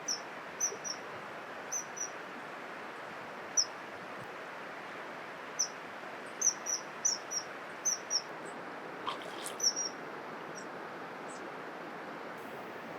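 A small bird giving short, high chirps, singly and in quick clusters, over a steady background hiss; the chirps stop about ten seconds in.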